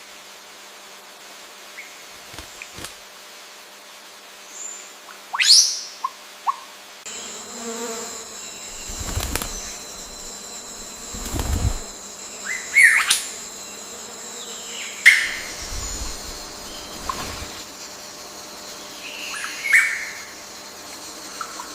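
Forest ambience: scattered bird calls, short sharp chirps and quick sweeping whistles, a few seconds apart. A steady high insect drone comes in about a third of the way through, and there are a few low rumbles.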